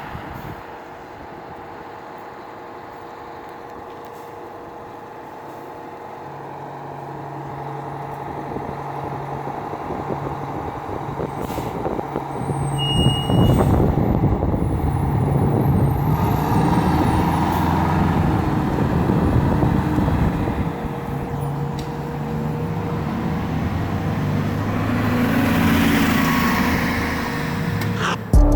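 Fire department ladder truck's diesel engine approaching and passing, growing steadily louder over the first dozen seconds and staying loud. A hiss of air rises near the end.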